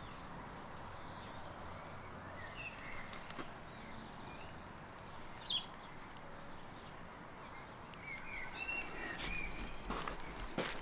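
Faint birdsong outdoors: scattered short chirps, with a small cluster of them about eight seconds in, over a quiet background hiss. A couple of soft knocks come near the end.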